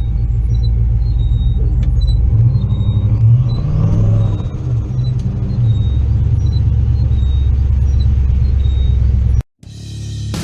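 Turbocharged LS V8 engine of a Chevy C10 pickup running under way, with a deep steady drone and a whistle that rises in pitch about three to four seconds in. Near the end the engine sound cuts off suddenly and music starts to fade in.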